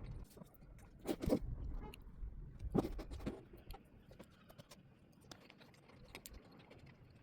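A few short knocks and light clicks and scrapes of objects being handled, the loudest knocks about a second in and just under three seconds in.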